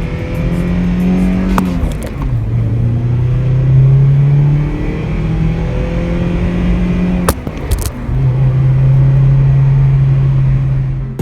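Toyota Celica's four-cylinder engine accelerating through the gears. Its note climbs and then drops at an upshift about two seconds in and again about eight seconds in, with a brief click just before each drop.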